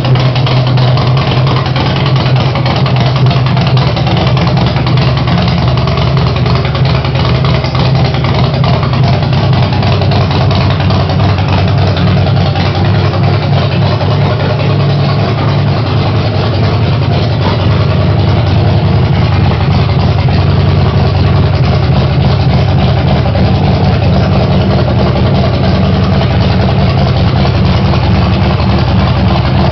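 Harley-Davidson V-twin engine of a bobber idling steadily on its first start-up, getting slightly louder and a little higher in pitch just past halfway.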